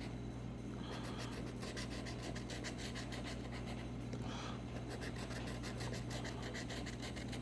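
Scratch-off lottery ticket being scratched: soft, rapid scraping strokes over a steady low hum.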